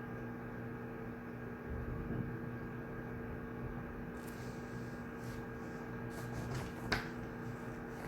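Room tone of a shared study room: a steady low electrical hum, with faint small rustles and ticks in the second half and one sharp tap about seven seconds in.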